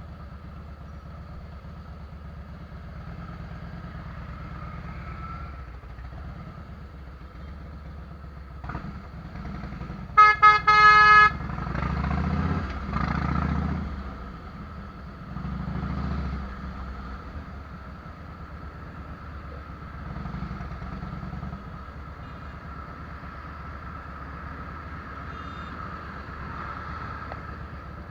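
Harley-Davidson Fat Boy's V-twin engine running through Vance & Hines fishtail exhausts: a steady low rumble that swells with throttle several times. About ten seconds in, a horn gives three short, loud blasts.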